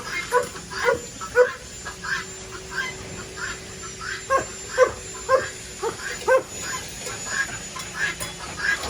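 Farm animals calling noisily at feeding time: a constant run of short, overlapping calls, roughly two a second, from several animals at once.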